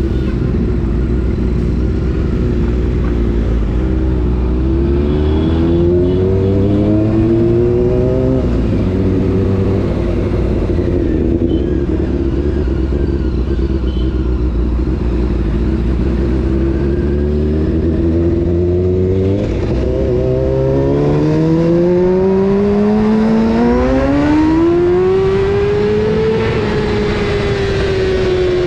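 Honda CBR600 F4's inline-four engine revving up under acceleration over a steady low rumble. There is a short rising pull about five seconds in that breaks off at a gear change. From about twenty seconds in comes a long climb in pitch that peaks and then slowly falls as the throttle comes off.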